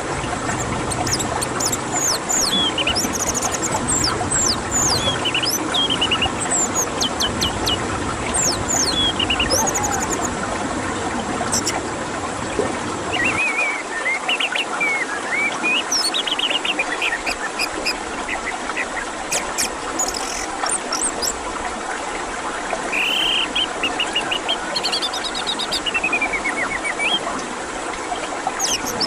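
Orange-headed thrush (anis merah) singing: quick, varied whistled phrases and chirps over a steady busy background hiss. A low rumble underneath stops about halfway through.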